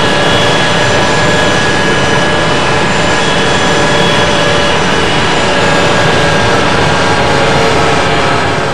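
Airbus A380's four turbofan jet engines running loud and steady, heard from inside the cabin: a dense rush of noise with steady whining tones over it. It starts to fade out right at the end.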